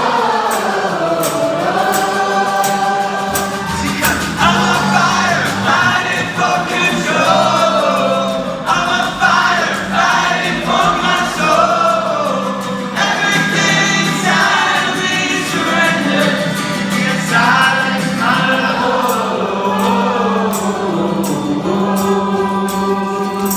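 Live rock band playing with sung vocals over a steady held low note, recorded in the concert hall.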